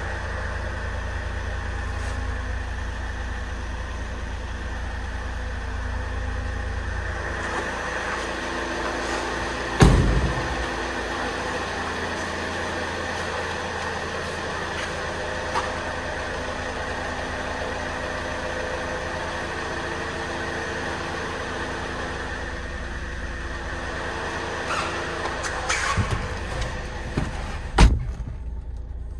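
Saab 9-3 2.0T's turbocharged four-cylinder engine idling steadily. A heavy thump comes about ten seconds in, and a few sharper knocks come near the end.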